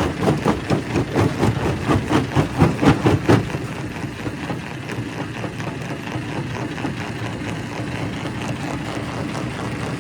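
Primary rock crusher breaking rock: rapid knocks and cracks at about four a second, loudest for the first three seconds or so, then easing into steady machine running with fainter clatter.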